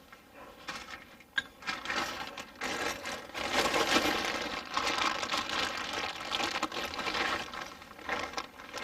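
Rustling, crinkling and small clicks of parts being handled while a diesel heater fuel pump is fitted in place with its mounting screws. There is one sharp click about a second and a half in, then a busier stretch of rustling and scraping through most of the middle.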